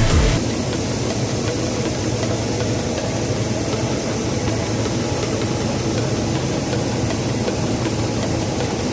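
Diesel engine of farm machinery working a wheat harvest, running steadily with a constant hiss over it. Background music cuts off just after the start.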